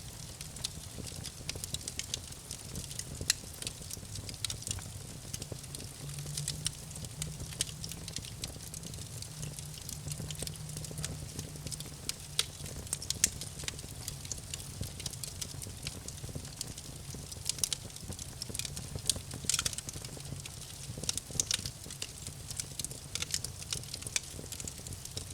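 Campfire burning and crackling: irregular sharp pops and snaps over a steady low rumble.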